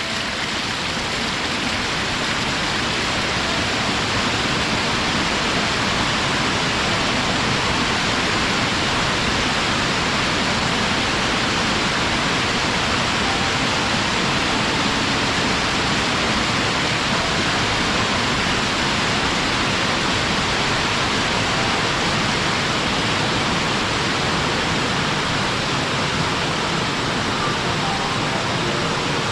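Waterfall: a steady, dense rush of falling water, swelling slightly over the first few seconds and then holding even.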